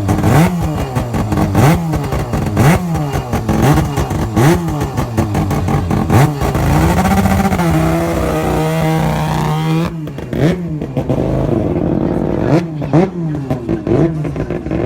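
Norton twin-rotor Wankel rotary motorcycle engine being revved in short throttle blips, about one a second. About halfway through it is held at steady revs for around three seconds, drops off sharply, then goes back to blipping.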